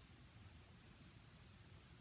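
Near silence: room tone, with two faint, quick high clicks about halfway through.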